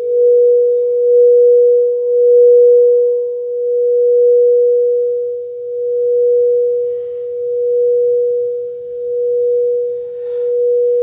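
Singing bowl sustained at one steady, pure tone, its loudness swelling and fading about every two seconds.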